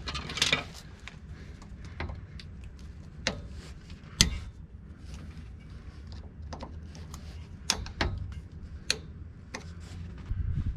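Scattered sharp metal clicks and taps of a small pry bar working the retaining clip out of a U-joint bearing cap at the front axle yoke, the loudest click about four seconds in.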